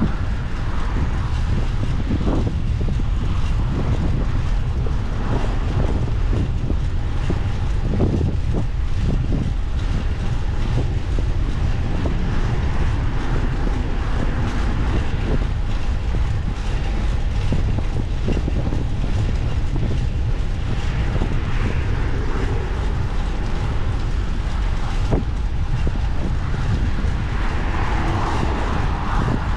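Steady low rumble of wind and road noise on a microphone carried on a moving bicycle, with a few brief knocks.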